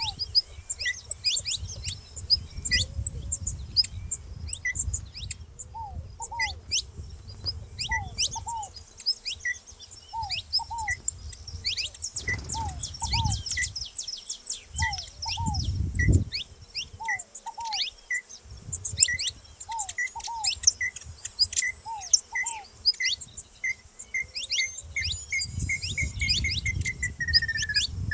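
Saffron finches chirping busily, with other birds calling among them: a short note repeats about once a second and speeds up into a trill near the end. A low rumble sits underneath at times.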